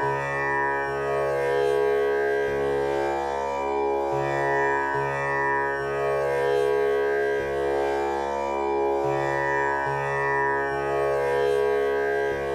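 Tanpura drone tuned to C#, its strings plucked one after another in a cycle that repeats about every five seconds, with rich overtones ringing on unbroken between plucks.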